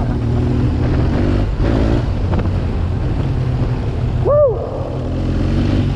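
BMW R 1200 GS boxer-twin engine with an SC Project exhaust running steadily under way at low speed, with some wind on the microphone. About four seconds in, a short rising-and-falling vocal whoop rises over it.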